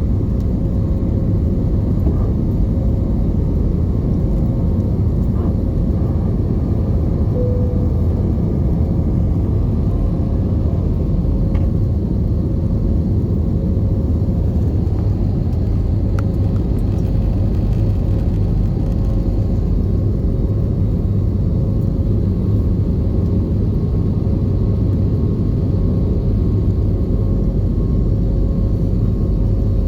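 Airbus A320 cabin noise: a steady rumble of the jet engines and airflow, with a constant hum held throughout.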